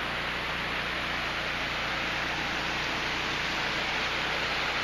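Steady rushing of a mountain creek, an even unbroken hiss of flowing water.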